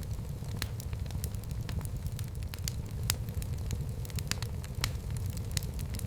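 Fire burning in a fireplace, crackling with irregular sharp pops, several a second, over a low steady rumble.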